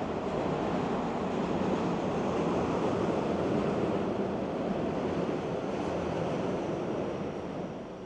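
Rushing river water, a steady loud wash that swells and then eases a little near the end.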